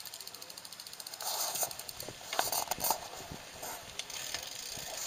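A tandem bicycle's freewheel ticking rapidly and evenly while the riders coast, followed by irregular clicks and rattles from the bike as it rolls.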